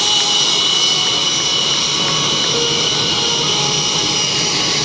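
Blue Angels F/A-18 Hornet jet engines running, a steady loud rush with a high, even whine.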